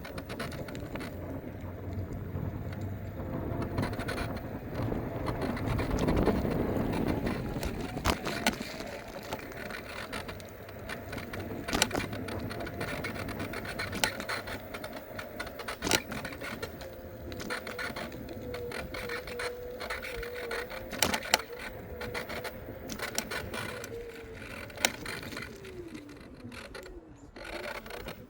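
Electric scooter in motion: a steady motor whine that drops in pitch near the end as it slows, with frequent sharp rattles and knocks from the scooter over the ground. A louder rush builds and fades about six seconds in.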